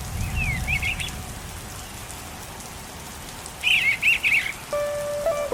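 Steady rain with two short bursts of chirping bird calls, one at the start and one about four seconds in. Near the end a melody of held notes begins over the rain.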